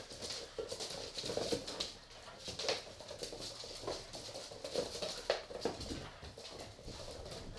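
Pit bull puppies playing, their claws tapping and scuffling on a hard floor in irregular clicks.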